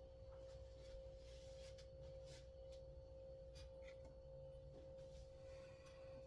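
Near silence: a faint steady single-pitched hum, with a few faint light clicks and rubbing sounds from handling small parts of a chainsaw's recoil starter.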